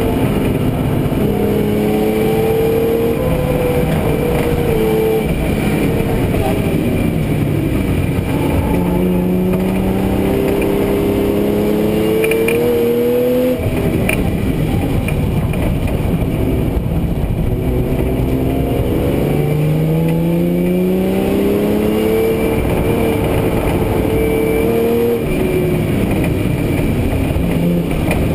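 Car engine heard from inside the cabin while being driven hard on track: its note climbs steadily under acceleration and drops sharply at gear changes or lifts, a few times, over a constant rumble of road and tyre noise.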